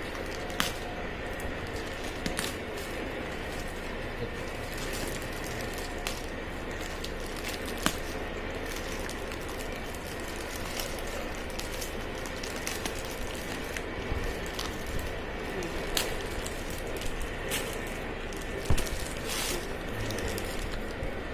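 Cardboard box and bottle packaging being handled: scattered small clicks and crackles over a steady background hiss with a faint hum.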